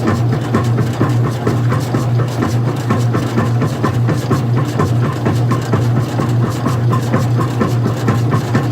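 Old-style front-loading washing machine running mid-cycle with its cover off: a steady low hum with a rapid, regular clicking of about four to five a second.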